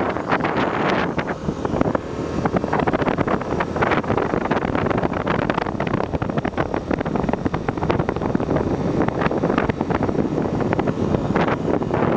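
Wind buffeting the microphone of a moving Honda XR250 Tornado motorcycle, a 250 cc single-cylinder trail bike, with its engine running under the rush of air.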